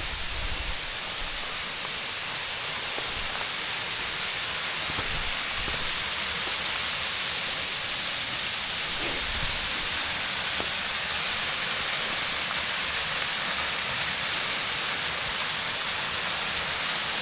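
Steady rush of a waterfall, an even hiss of falling water that grows slightly louder over the first few seconds and then holds.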